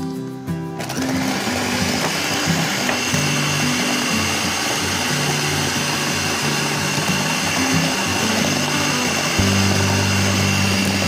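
Electric hand mixer switching on about a second in and running steadily, its beaters churning thick cookie dough, with a high motor whine.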